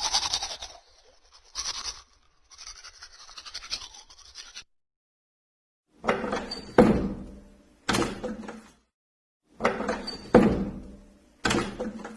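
A buzzing sound stops just under a second in, followed by two shorter bursts of it. After a short silence comes a group of thuds with brief ringing, and the same group of thuds comes again.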